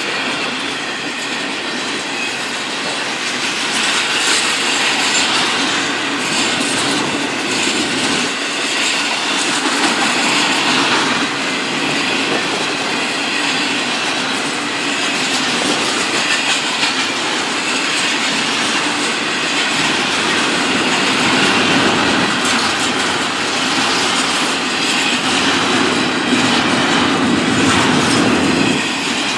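A train rolling past at close range: a steady, loud rumble and hiss of wheels on rail, with a continuous run of clicks as the cars pass over the rail joints.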